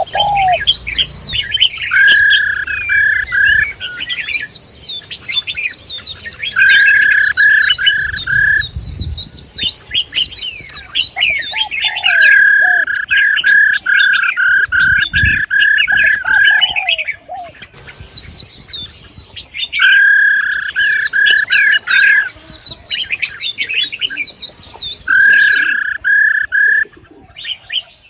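Female songbirds calling in a dense stream of fast, high chirps and twitters. Runs of four or five clear, level whistled notes are repeated every few seconds through it.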